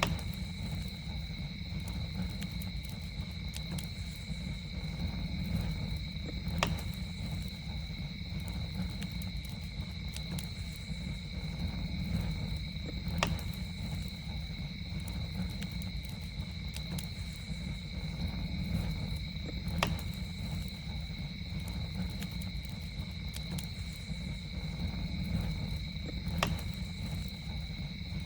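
Campfire crackling over a low steady rumble, with a sharp pop about every six and a half seconds and smaller ticks between. A steady, high-pitched insect trill runs underneath.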